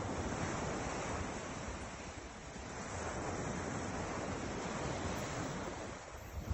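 Ocean surf breaking and washing in, swelling and easing twice, with some wind rumbling on the microphone.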